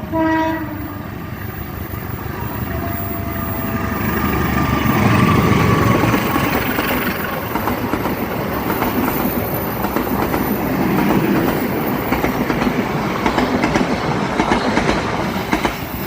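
A train horn gives a short blast, then a passenger train runs past close by: the locomotive's rumble swells to its loudest about five seconds in, and the carriages follow with a steady clatter of wheels over the rails.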